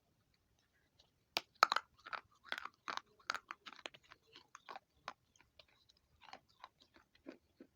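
Baked clay pot pieces with grey clay paste crunched and chewed between the teeth. A sharp, loud bite comes about a second and a half in, followed by a run of crisp, uneven chewing crunches that grow fainter.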